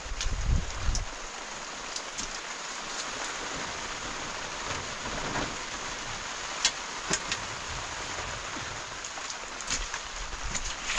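Steady rain falling, an even hiss with a few sharp drip-like taps, and a low gust of wind in the first second.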